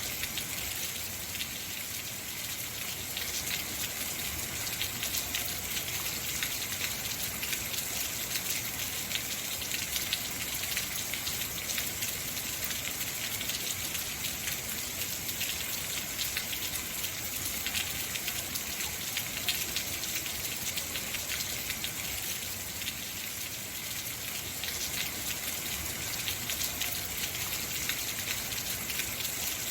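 Heavy rain falling steadily, a dense hiss of drops with many fine patters on surfaces.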